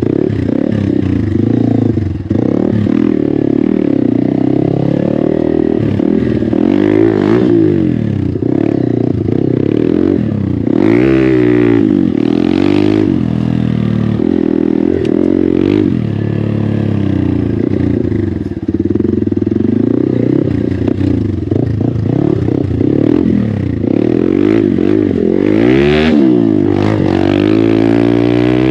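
Hero Xpulse 200's single-cylinder four-stroke engine running through an aftermarket MW Performance exhaust. Its pitch rises and falls again and again as the throttle is opened and eased off.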